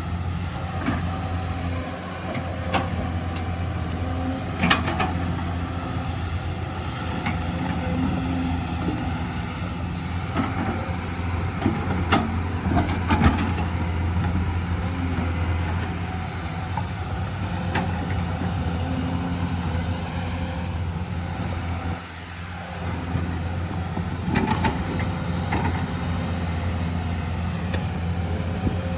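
Hyundai excavator's diesel engine running steadily under working load, with scattered sharp clanks and knocks. The engine sound drops briefly about three-quarters of the way through.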